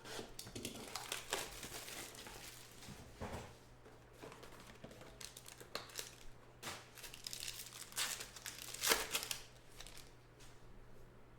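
A football trading-card pack being torn open, its wrapper crinkling in irregular crackling rustles, loudest about nine seconds in.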